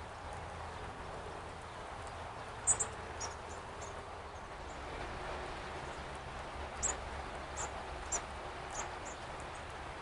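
Small songbirds giving short, very high, thin call notes: a few chips about a third of the way in, the loudest of them first, and another scattered run in the last few seconds, over a steady low background hum.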